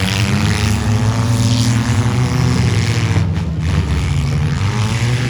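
Several mini-truck engines revving hard, their pitches rising and falling over one another, as the trucks run in a demolition derby.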